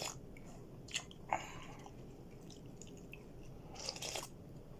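A person chewing and eating close to the microphone, with a few short wet mouth sounds and soft clicks.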